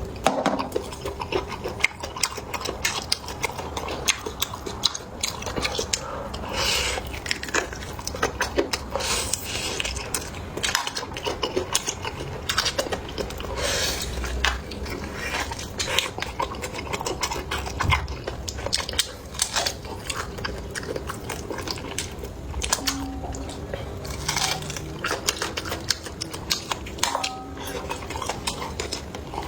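Close-up eating sounds: biting and chewing with many short, irregular clicks of utensils against dishes.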